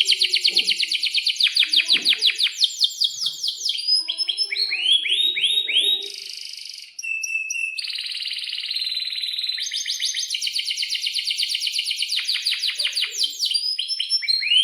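Domestic canary singing a long song of fast rolling trills: runs of rapidly repeated notes that switch to a new pitch and pattern every second or two, with a brief break about seven seconds in.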